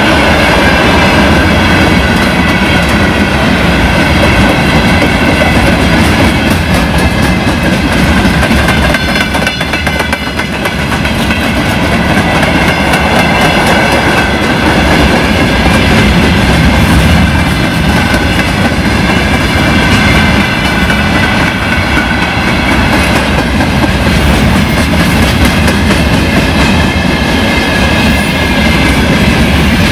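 Freight wagons (open gondolas and a cement hopper) of a long freight train rolling past close by: a loud steady rumble of wheels on rails with a clickety-clack, and a steady high ringing over it. The sound is briefly quieter about ten seconds in.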